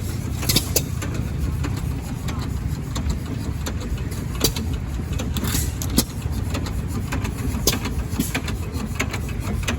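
An engine running steadily with a low rumble, with irregular sharp clicks and knocks over it, and voices in the background.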